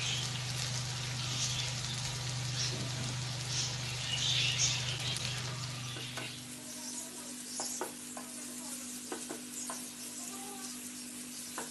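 Fish masala sizzling in a frying pan as hot frying oil is poured in, then stirred and scraped with a wooden spatula. The sizzle is strongest in the first half, and a few short clicks of the spatula come later. A steady low hum underneath stops about six and a half seconds in.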